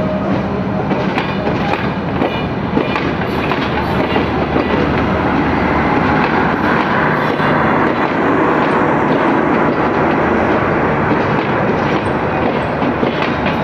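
Passenger coaches of a diesel-hauled intercity express train rolling past at speed, a steady loud rumble with the wheels clattering on the rails.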